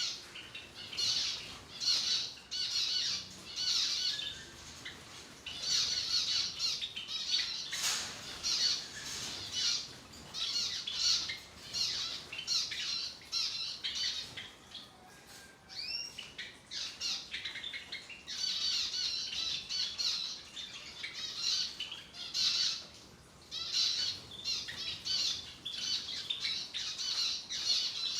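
A flock of caged zebra finches calling: a busy chatter of short, high, nasal calls in rapid clusters, easing off briefly now and then. One sharp click about eight seconds in.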